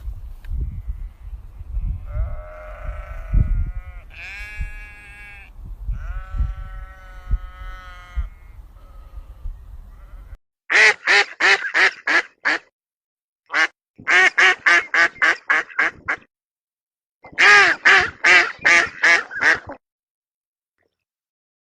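Bleating calls over a low rumbling background, then, about ten seconds in, a duck quacking in three quick runs of loud quacks, about four a second, with short gaps between the runs.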